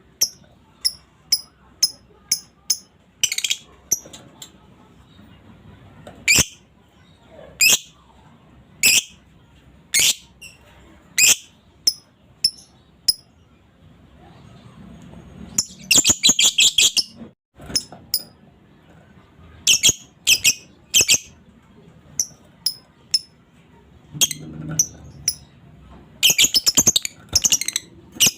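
Young female fighter lovebird giving sharp, high chirps about once a second, breaking twice into a rapid chattering trill, the 'ngekek' call, about 16 seconds in and again near the end.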